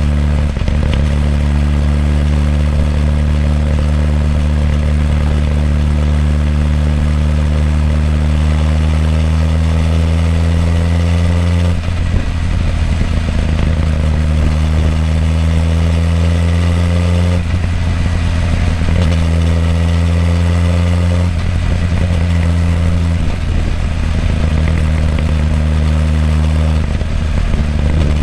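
Suzuki GSX-R1000R's inline-four exhaust through its stock muffler, heard close up while riding at town speeds. The engine note climbs slowly, then breaks off with a brief rough patch and drops back several times, as with throttle closing and gear changes.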